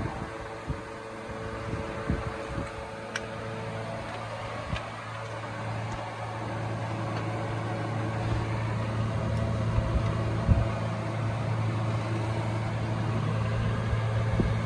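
Toyota 1ZZ four-cylinder car engine running steadily with a low, even hum. A higher steady tone drops out about four seconds in.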